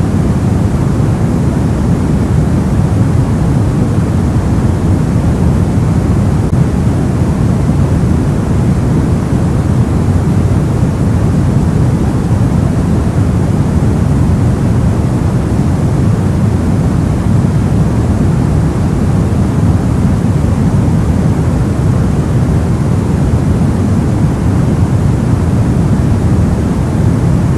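Steady, deep, soft noise, a sleep-track 'soft white noise' weighted toward the low end like a dull rumbling hiss, unchanging throughout.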